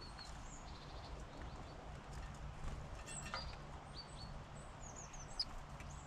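Small wild birds giving short high chirps and quick descending notes, among scattered sharp taps, over a faint low steady hum.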